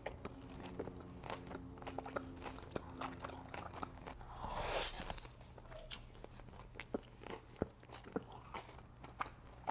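Close-up biting and chewing of crispy fried food, with a steady run of sharp crunches and a brief hissing swell near the middle.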